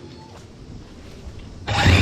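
Low background, then about 1.7 s in a power saw starts running loudly and abruptly.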